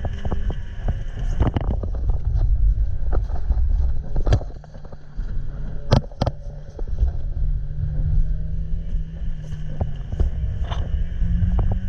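Stock NB Mazda Miata's four-cylinder engine running under load, over a heavy low rumble of wind and road noise, with several sharp knocks. The engine note climbs steadily near the end.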